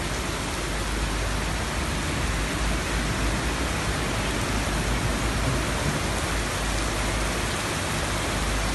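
Heavy rain pouring down steadily, an even dense hiss with no breaks.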